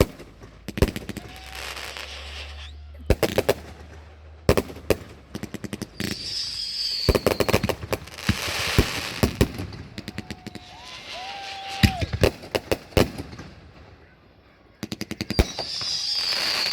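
Consumer fireworks going off: single sharp bangs and rapid crackling volleys in bursts, with a high whistle heard twice.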